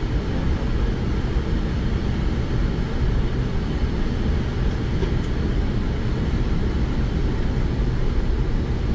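Steady aircraft engine and airframe noise, a low even rumble heard inside the cockpit during the takeoff run.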